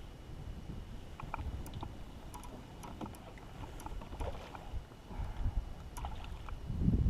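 Kayak on a flowing creek: faint low water and handling rumble with scattered small clicks and ticks, growing louder near the end.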